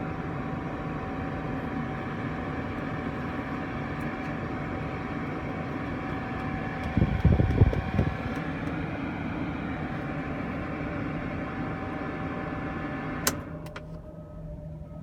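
Mercedes 380 SL's V8 engine idling steadily, heard from inside the car, with a constant hum over it. About seven seconds in there is a short, louder low surge. A click comes near the end, after which the sound drops quieter.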